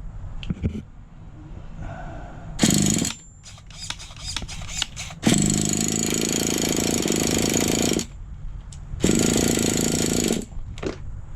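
Small nitro glow engine of an RC truck running in loud bursts: a short one, then about two and a half seconds of steady running near the middle, then another short run, cutting out in between. It keeps killing itself out, which the owner thinks may be dirt in the carburettor.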